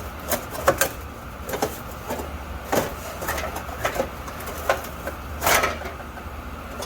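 Irregular metallic clicks and clinks of a thin sheet-metal exhaust heat shield being handled and bent by hand, with a longer scraping rattle about five and a half seconds in, over a steady low hum.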